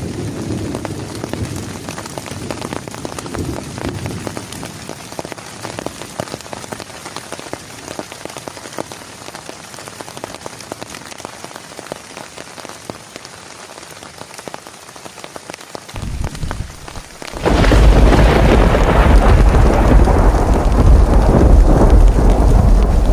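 Heavy rain falling steadily, with low thunder rumbling early on. About three-quarters of the way in, a close thunderclap breaks out suddenly, far louder than the rain, and keeps rumbling heavily.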